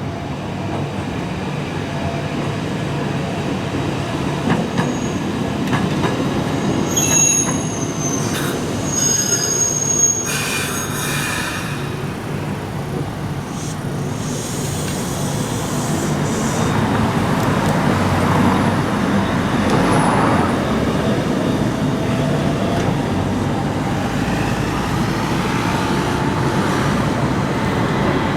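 A Fukui Railway tram running on its rails. Its wheels give short high-pitched squeals about a quarter of the way in, and the running noise grows louder in the second half as the car comes closer.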